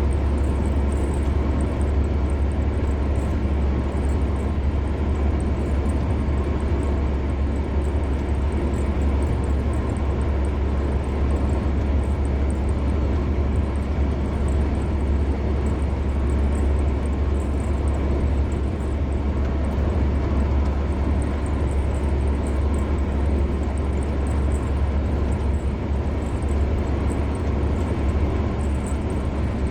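A car driving steadily on a highway: an even, deep rumble of tyres and engine, with no change in pitch or level.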